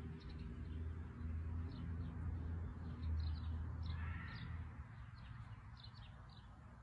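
Small birds chirping: short, high, falling chirps repeated every second or so, over a low steady rumble.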